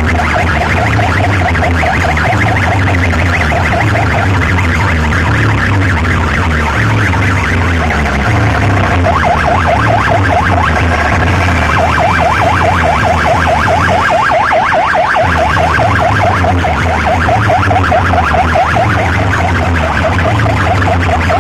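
A DJ sound system played very loud: a fast warbling, siren-like effect over heavy pulsing bass. The bass drops out briefly about two-thirds of the way through, then comes back.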